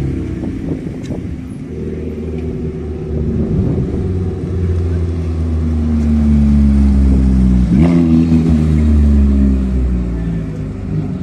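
Porsche 911's flat-six engine running at low revs as the car rolls past close by, loudest as it goes by, with a brief rev blip about eight seconds in.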